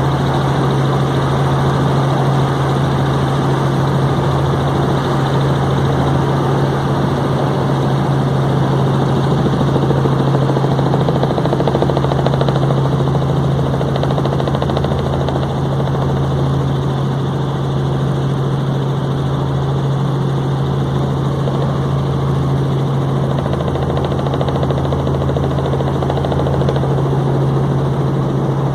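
Helicopter in flight: its rotor and engine run with a steady, even hum that does not change in pitch.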